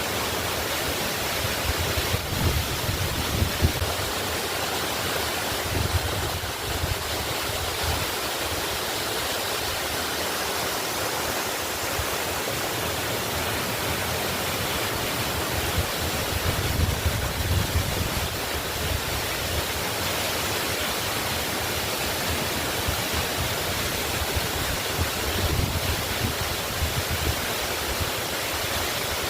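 Waterfall pouring steadily, an even rushing water noise, with a few brief low swells in the rumble.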